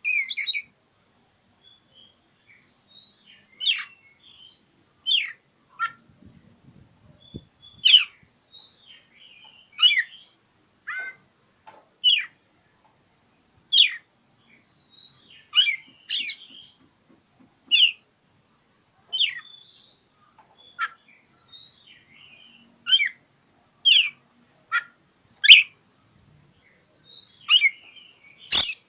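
Oriental magpie-robin (kacer) singing a challenging, territorial song: short sharp whistled chirps and notes, one every second or two, some of them very loud.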